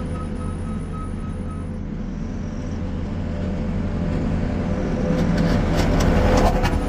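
New Holland C232 compact track loader's diesel engine running steadily while working, with gravelly crackling and crunching building in the last couple of seconds.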